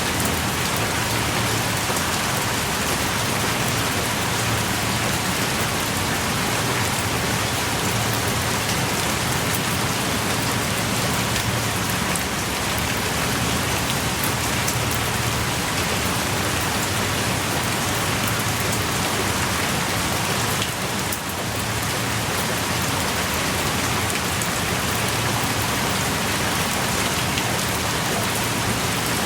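Steady heavy rain pouring down, dense patter of drops on the ground and rock, heard from the shelter of a small cave. A brief slight dip in the level about two-thirds of the way through.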